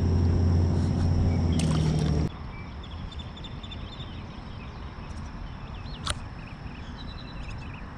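A loud, steady low motor hum that cuts off suddenly about two seconds in. After it comes a quieter outdoor background with scattered short high chirps and one sharp click about six seconds in.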